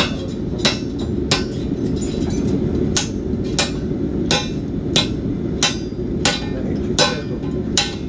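Steel hand hammer striking a chisel being driven through the eye of a hot forged tomahawk head, in steady sharp metallic blows about one and a half per second. It is the last few blows finishing the cut through the blank.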